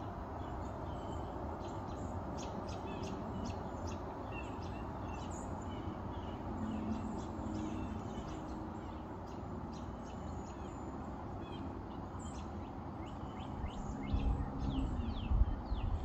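Birds chirping, many short high-pitched calls scattered throughout, over a steady outdoor background hiss. A low rumble, like wind or handling on the microphone, rises near the end.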